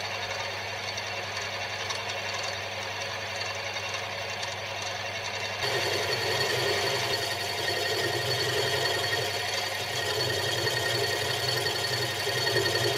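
Metal lathe running while the cutting tool takes a light finishing pass across a workpiece bolted to the faceplate. The sound is steady, and the cut gets louder about six seconds in. The carriage is not clamped, so the cut vibrates a fair bit.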